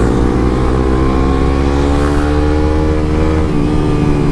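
Motorcycle exhaust with the dB killer removed, the engine pulling through a gear with its pitch rising steadily, then easing off about three and a half seconds in.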